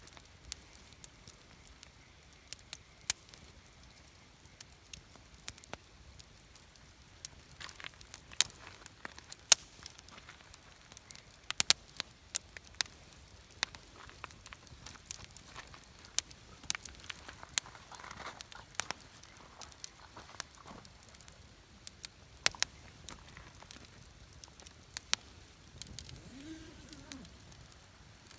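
Wood campfire crackling, with irregular sharp pops and snaps of burning wood, some much louder than others.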